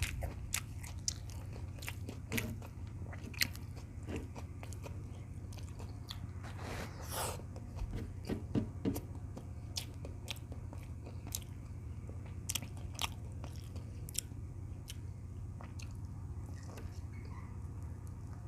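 Close-miked eating: chewing and biting with scattered sharp mouth clicks and smacks over a steady low hum, the sounds of someone eating a meal of beef tocino and rice.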